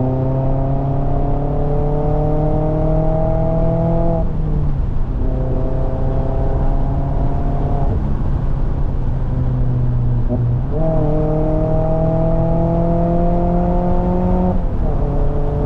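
Mazda MX-5 Miata (ND) 2.0-litre four-cylinder engine and exhaust heard from the cockpit, pulling uphill under load with the revs climbing slowly in each gear. The revs drop at gear changes about four and fifteen seconds in, and jump up sharply near eleven seconds, as on a downshift.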